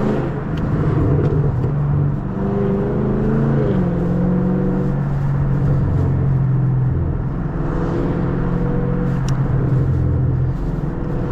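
2023 Camaro SS 6.2-litre V8 with its muffler and secondary catalytic converters deleted, running under way with a loud, steady exhaust note, heard from inside the cabin. The engine note steps down about four seconds in, as the 10-speed automatic changes gear.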